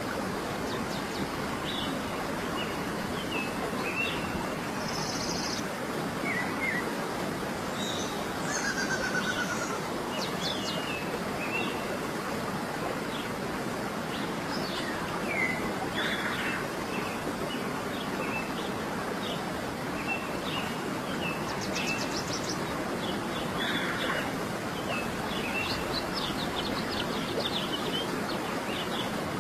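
Several birds chirping and trilling in short, scattered calls over a steady rush of flowing water.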